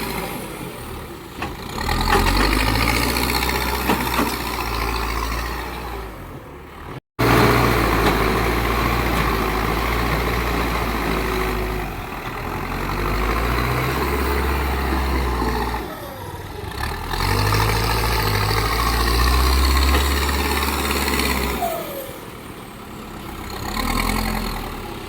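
Heavy diesel machinery engines running, swelling and easing off in loudness several times, with a sudden break about seven seconds in.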